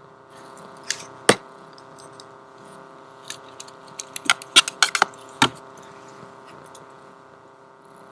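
A string of sharp, light metallic clinks and clicks, most of them bunched together in the middle, over a steady background hum.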